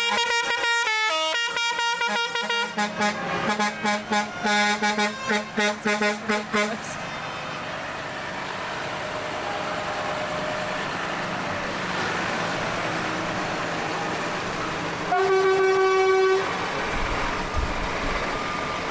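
Vehicle horns in a procession: for the first seven seconds a horn sounds a quick run of pulsing notes that jump between pitches, like a tune-playing horn, over engines running. About fifteen seconds in, one long steady horn blast sounds for just over a second.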